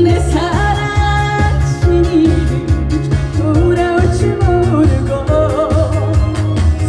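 A woman singing a Korean trot song over instrumental accompaniment with a steady, heavy beat.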